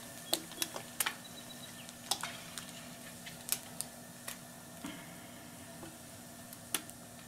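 Low sizzle of hot oil in a cast-iron skillet with panfish fillets frying, the quieted sizzle a sign they are done. Scattered sharp clicks come through it as a steel spatula lifts the fillets out of the pan.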